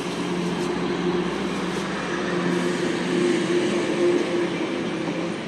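A vehicle's engine running steadily with a constant hum under road and wind noise, as heard while riding along.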